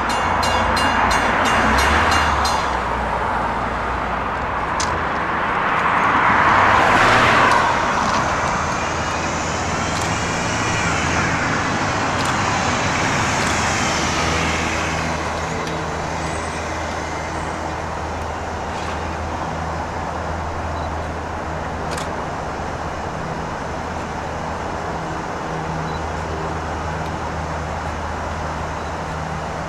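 LIRR M3 electric multiple-unit train pulling out and passing a grade crossing. A crossing bell rings for the first couple of seconds, then the train's noise swells to its loudest about seven seconds in. The steady hum of wheels and motors continues, with a traction-motor whine that bends up and down, easing slightly toward the end.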